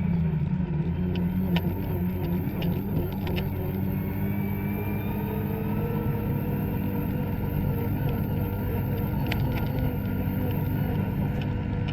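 Two-stroke snowmobile engine running steadily, with a few brief clicks over it.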